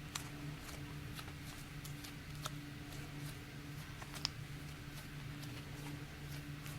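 Hands handling slime and its container: faint scattered clicks and small crackles, one a little louder about four seconds in, over a steady low hum.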